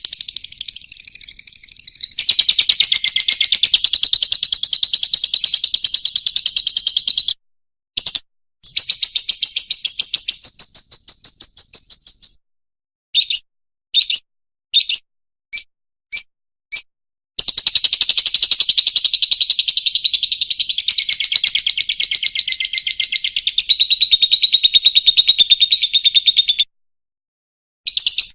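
Fischer's lovebird singing: long runs of rapid, high chattering twitters broken by short pauses, with a string of short separate chirps about halfway through.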